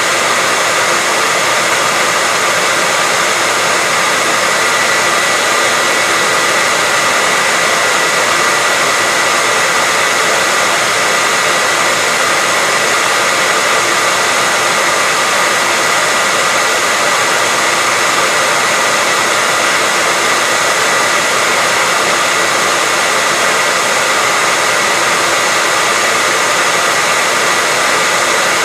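Hair dryer running steadily on one setting: a constant rushing of air with a faint high motor whine, played as white noise.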